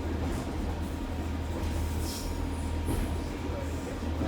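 Heritage railway train running along the line: a steady low rumble with a faint constant whine, and a few brief high squeaks about two to three seconds in.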